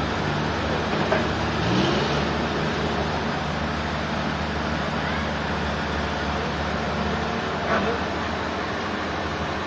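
Engine-driven machinery running steadily: a constant low hum under a broad mechanical noise, with a brief rise in pitch about two seconds in.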